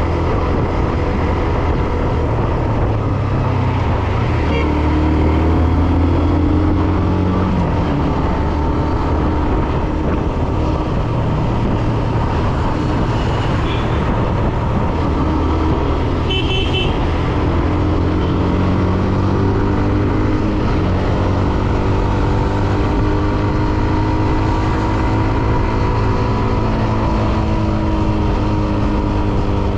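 Hero Xtreme 125R's single-cylinder engine running on the move, its pitch rising and falling with the throttle, over road and wind noise. A vehicle horn toots briefly about halfway through.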